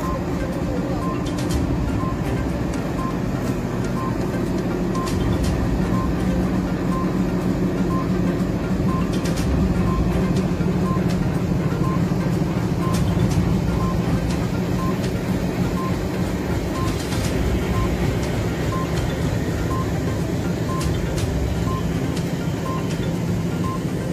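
Freight train hauled by an Indian Railways diesel locomotive moving slowly past at close range: a steady engine rumble with occasional clanks from the wagons.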